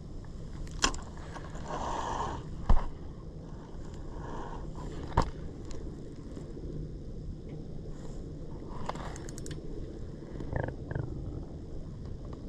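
Steady wind and water noise on a small fishing boat drifting at sea, broken by a few sharp knocks, the loudest about three seconds in, and a quick run of clicks near the end.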